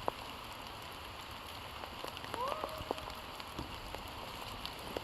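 Steady rain pattering with scattered single drops, and about halfway through one short, rising dog yelp.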